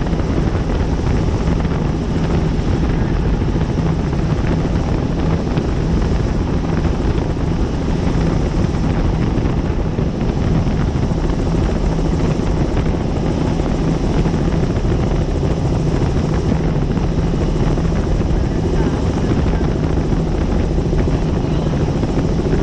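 Helicopter in flight: steady rotor and engine noise with a constant low hum that holds level throughout.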